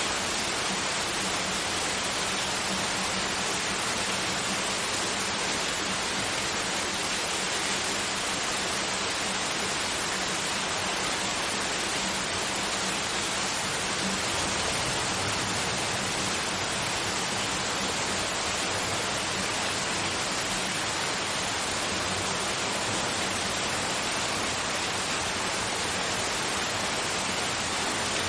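Steady, unchanging white noise, a continuous hiss strongest in the upper-middle range, with a faint low hum underneath.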